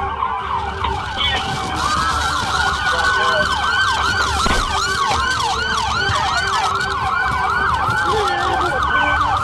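Several police car sirens yelping at once, their fast rising-and-falling tones overlapping out of step, over a low rumble of vehicle noise.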